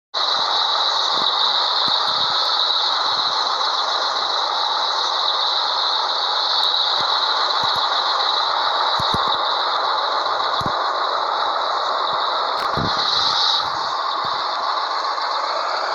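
Scania 112H truck's inline-six diesel running steadily, a constant rush of engine and road noise with a high whine over it. It cuts in abruptly at the start, and the level drops slightly near the end.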